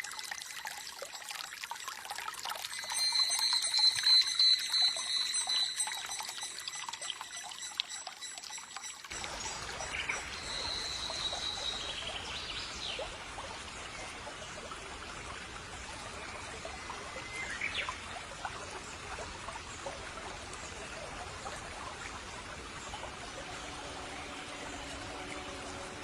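Stream water trickling and flowing steadily, with short bird calls over it. About nine seconds in, the water sound suddenly becomes fuller and deeper.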